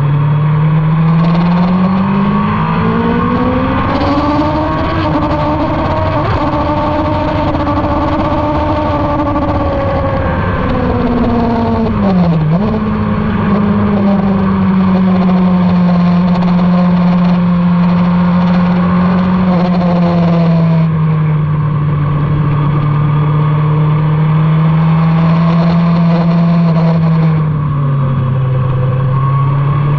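Motorcycle engine running hard on a race track: it climbs in pitch over the first few seconds, holds, then eases off about twelve seconds in with a sharp dip before settling at a steady lower pitch, and drops once more near the end. A steady rushing noise runs underneath.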